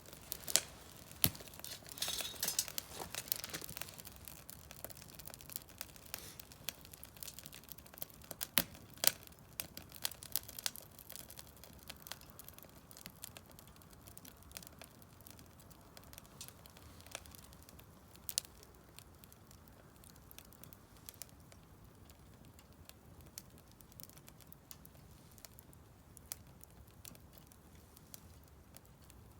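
Firewood burning in a Solo Stove Campfire fire pit, crackling with irregular sharp pops. The pops come thick and fast in the first ten seconds or so, then thin out to an occasional snap.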